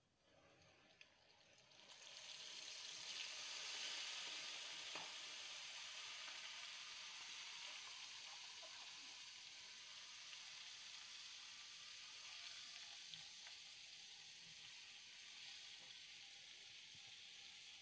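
Cornflour-coated sweet corn kernels sizzling as they deep-fry in hot oil. The sizzle swells sharply about two seconds in as the corn hits the oil, then slowly eases off, with an occasional light click.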